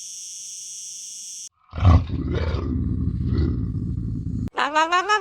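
A low, rough animal roar with several swells, cut in after a steady high hiss; near the end a different animal's pitched call begins.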